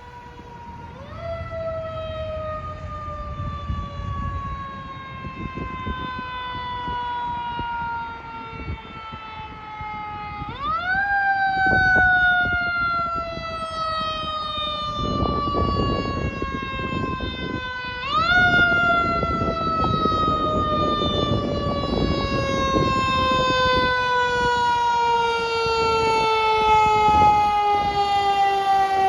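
Fire engine's mechanical siren, winding up quickly three times and each time coasting slowly down in pitch, over the rumble of the truck. It grows louder as the apparatus approaches.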